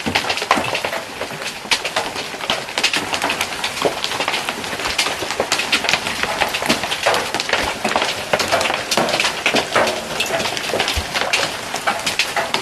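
Large hailstones, about golf-ball size, pelting down in a dense, irregular clatter of hard impacts over a hiss of falling rain.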